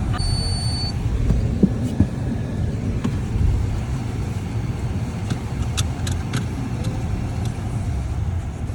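Steady low rumble of a car driving, heard from inside the cabin, with a short high beep just after the start.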